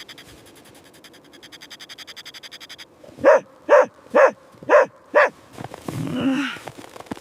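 A dog barks five times in quick succession, about two barks a second, after a faint, fast pulsing. A low, drawn-out moan follows near the end.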